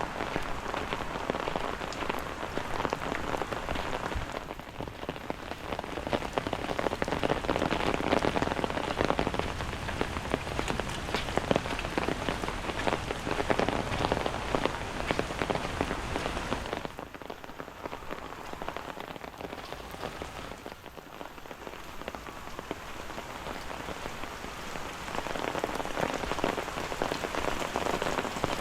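Steady rain, a dense patter of drops hitting surfaces. It eases noticeably for a few seconds past the middle, then picks up again.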